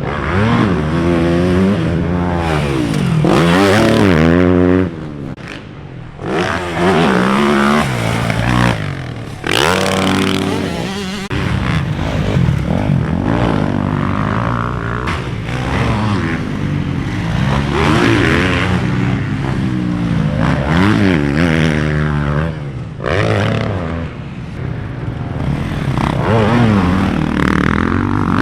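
Dirt bike being ridden around a motocross track, its motor revving up and falling back again and again through the jumps and turns.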